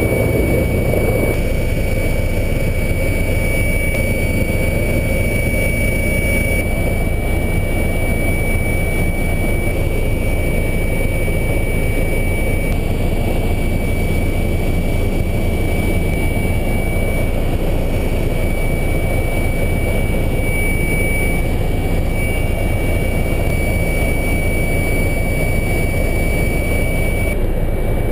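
EC-135 helicopter's twin turbine engines and rotor running steadily, a constant low rumble with a steady high turbine whine over it.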